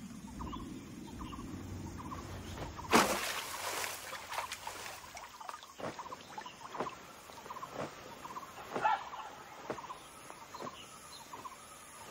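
Bird sounds: short high calls repeating about twice a second, with a sudden loud rush of noise about three seconds in and sharp ticks about once a second after it.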